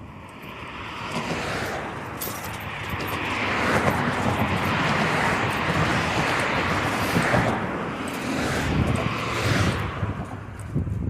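A motor vehicle passing close by: a rush of engine and tyre noise that builds over the first few seconds, holds, then fades near the end.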